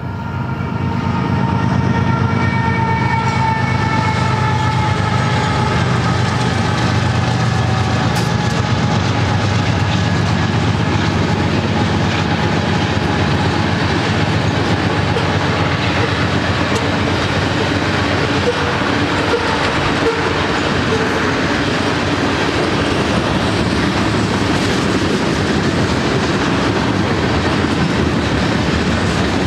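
BNSF ET44C4 diesel locomotive's horn sounding as it goes by, its chord sliding slowly down in pitch and fading over the first several seconds over the engine drone. Then the steady rumble and clickety-clack of the manifest freight's cars rolling past on the rails.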